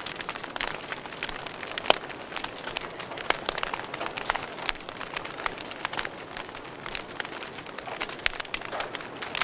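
Wood fire burning in a fireplace, crackling steadily with frequent sharp pops, the loudest about two seconds in.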